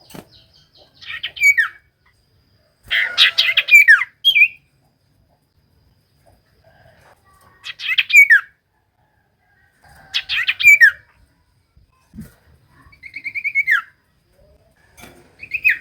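Common iora (cipoh) singing: short phrases of quick chattering notes, each ending in a falling whistled note, repeated every few seconds.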